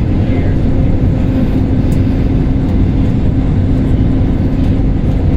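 Airliner cabin noise: the steady drone of engines and rushing air, with a constant low hum running through it.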